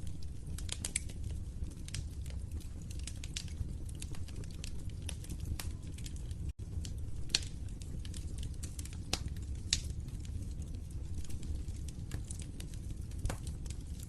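Wood fire in a fireplace crackling: irregular sharp pops and snaps over a steady low rumble of the flames, with a momentary drop-out about halfway through.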